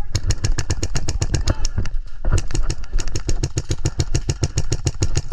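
Airsoft gun firing long full-auto bursts, a rapid even rattle of about ten shots a second, broken briefly about two seconds in.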